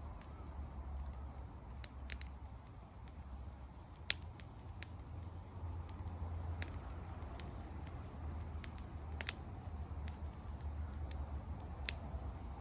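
Wood campfire crackling: a dozen or so sharp, irregular pops over a low steady rumble.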